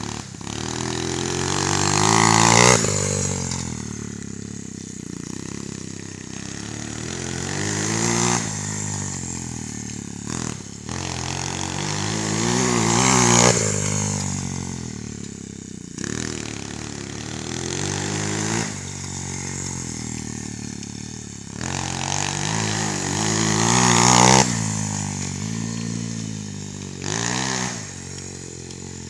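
Coolster Speedmax 125cc four-stroke single-cylinder pit bike engine revved hard, its pitch rising and falling again and again. There are about five swells, and each is loudest at its peak.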